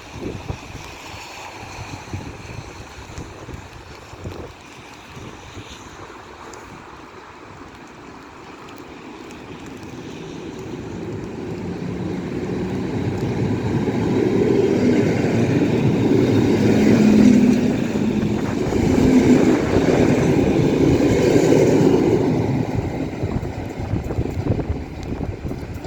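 A train approaching and passing through a station, growing louder from about ten seconds in, loudest through the middle to late part, then easing off near the end. Wind noise on the microphone is heard before it arrives.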